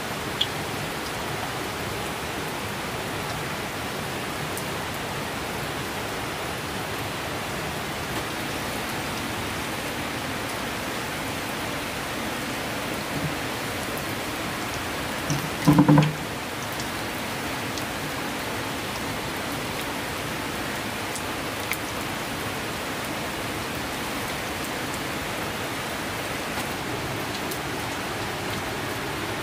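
Steady rain falling, an even hiss throughout, with one short, louder sound about halfway through.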